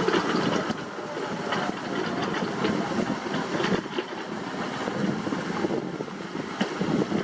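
Excavator diesel engine running under working load, with scattered metallic clanks and knocks from the machine at work.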